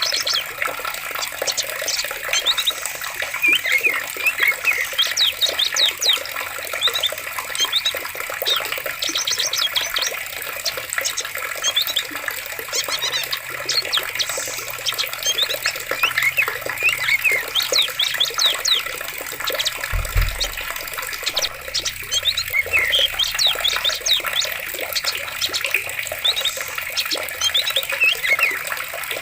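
Running water with many birds chirping and calling over it, the short calls coming thick and fast throughout. A brief low thud about two-thirds of the way through.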